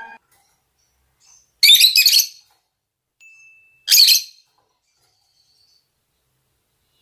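Lovebirds giving shrill, chattering mating calls in two short bursts, one about a second and a half in lasting under a second, the other about four seconds in.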